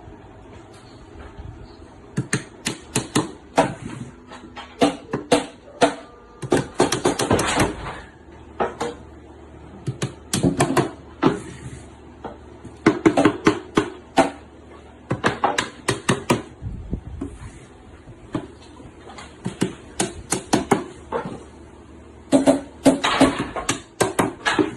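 Hammer driving nails into plywood panels to put together a box: quick clusters of several sharp knocks, with short pauses between nails.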